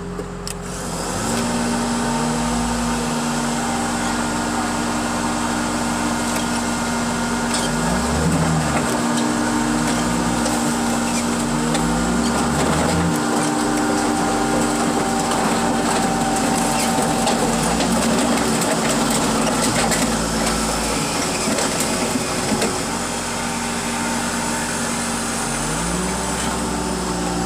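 Heavy machinery engine running under load, its pitch rising and falling in steps several times as it works.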